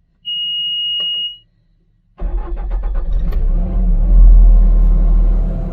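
A single steady high-pitched warning beep lasting about a second, then, about two seconds in, a skid steer's diesel engine cranks, catches and settles into a loud steady run.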